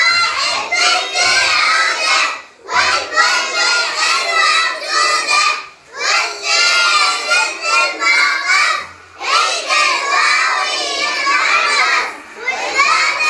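A class of young children chanting a numbers song loudly together in unison, with no instruments. It comes in phrases about three seconds long, with a short breath between each.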